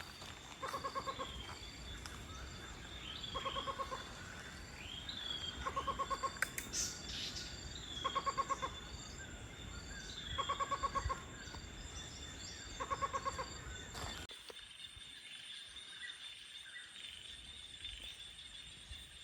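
Rainforest wildlife: a short, rapid, trilling call repeats six times at an even pace about every two and a half seconds, mixed with brief falling bird whistles over a steady high insect drone. About 14 seconds in the background changes abruptly, leaving mainly the high drone.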